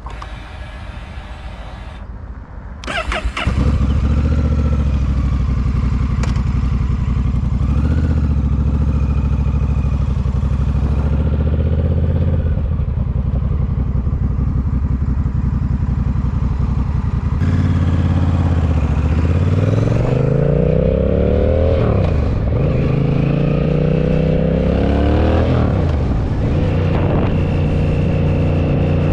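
Honda Rebel motorcycle engine starting up about three seconds in, then running steadily. In the second half its revs climb and drop several times as it accelerates through the gears, then it settles to a steady cruise.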